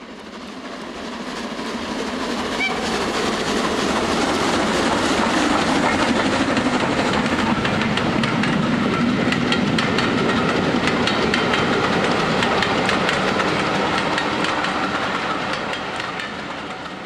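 A train running along rails, its wheels clicking over the rail joints in a busy clickety-clack over a steady running noise. It fades in over the first few seconds, holds steady, and fades away near the end.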